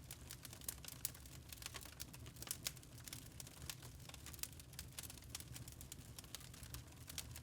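Wood fire crackling in a fireplace: irregular sharp pops and snaps, several a second, over a faint low rumble of the flames.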